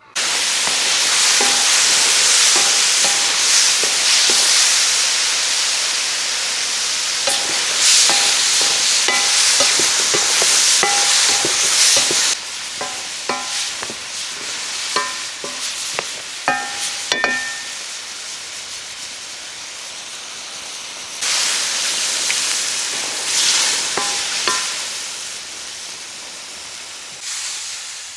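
Food sizzling loudly as it fries in a pot, stirred with a metal spoon that clinks and scrapes against the pot. The sizzle eases about halfway through and flares up again a few seconds later.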